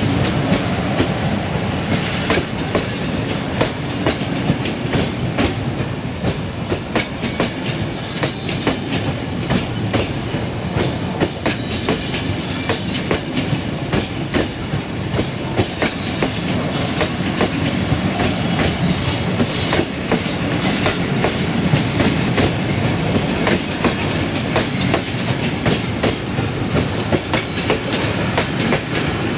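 Passenger train's coaches rolling steadily past, wheels clattering over the rail joints and points in a continuous clickety-clack.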